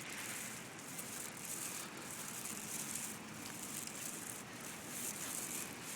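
Faint outdoor ambience: a steady hiss with soft rustling that swells and fades irregularly, about once or twice a second.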